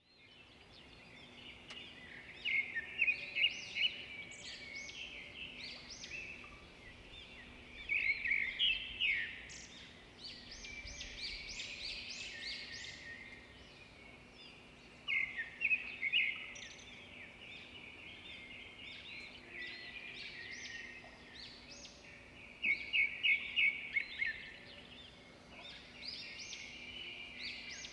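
Small birds chirping: quick runs of short high notes that come in several louder bouts, over a faint steady low hum.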